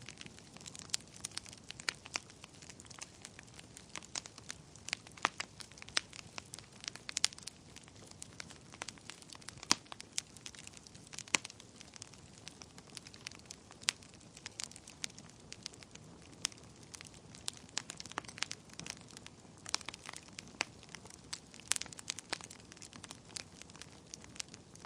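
Wood fire burning in a fireplace, crackling and popping irregularly over a soft low hiss of the flames.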